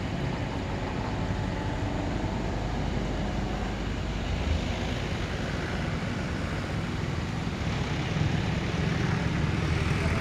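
Steady vehicle engine and road noise, getting somewhat louder about eight seconds in.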